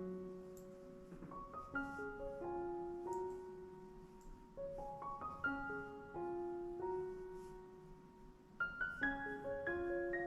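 Soft, slow solo piano music playing in the background, single notes and gentle chords ringing out.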